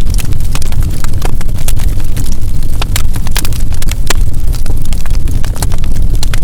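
Wood fire burning, with irregular sharp crackles and pops from the burning logs over a steady low rumble of the flames.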